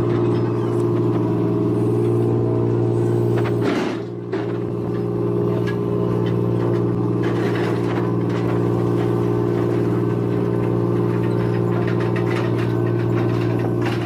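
A steady, low, engine-like drone that starts abruptly and dips briefly about four seconds in.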